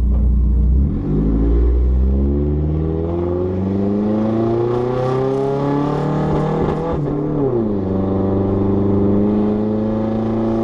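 Turbocharged Hyundai Sonata engine accelerating under load, its pitch climbing steadily for about six seconds, then falling sharply about seven seconds in before pulling again more slowly. The engine doesn't like going over 4,000 RPM, where the driver suspects it runs lean.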